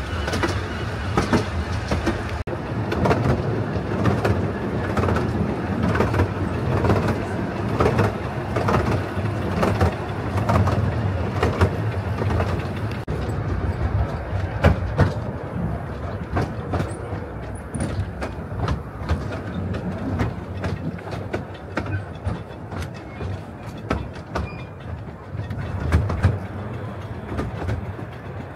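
Miniature steam railway train on the 12¼-inch gauge Fairbourne Railway running along the line, heard from an open carriage: a steady rumble with the clicking and clattering of the wheels on the rails.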